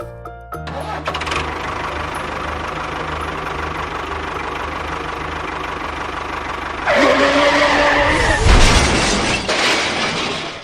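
Small engine running steadily with a low, even pulse. At about seven seconds a louder whine with a wavering pitch comes in over it and lasts about three seconds.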